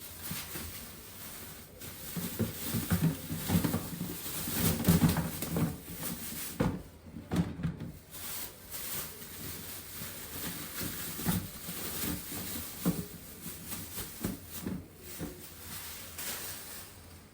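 Irregular handling sounds of kitchen work: a busy run of knocks, taps and rustling, loudest a few seconds in.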